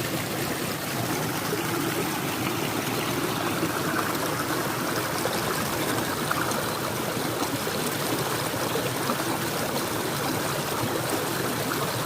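Small rain-swollen stream running over a little rock waterfall: a steady splashing, trickling flow.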